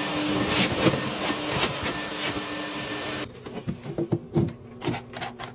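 Dryer-vent cleaning vacuum running steadily with a hum, with sharp rattles and scrapes of debris and tools in the duct, then cutting off suddenly about three seconds in. Scattered knocks and clatter of handled equipment follow.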